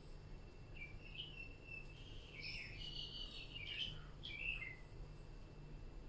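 Faint birds chirping, a run of short gliding chirps starting about a second in and dying away near the end, over a low steady hum.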